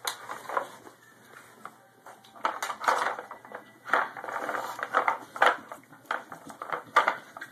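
Hard plastic clattering and clicking from a dog working a Dog Tornado puzzle toy, its stacked layers knocking and shifting as the dog hunts for treats. Quiet at first, then irregular rattling bursts from about two and a half seconds in.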